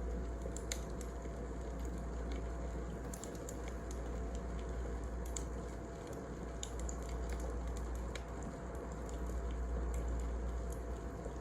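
Wood fire crackling: scattered sharp pops and snaps over a steady low rumble and hiss.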